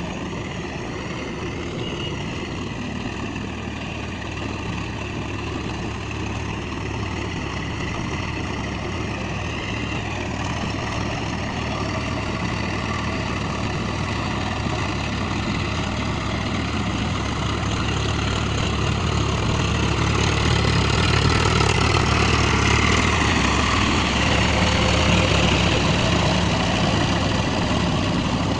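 Swaraj tractor's diesel engine running steadily, growing louder through the second half.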